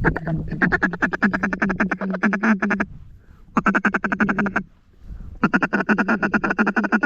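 Duck call blown in quick runs of short quacking notes, about ten a second at one steady pitch, to draw passing ducks into the decoys. There are three runs with brief pauses between them.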